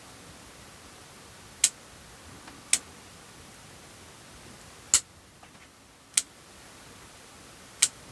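Pruning scissors snipping conifer twigs and foliage: five sharp snips spaced irregularly, a second or more apart.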